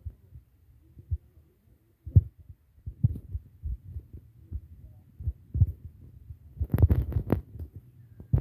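Irregular dull thuds, with a quick run of sharper knocks about seven seconds in.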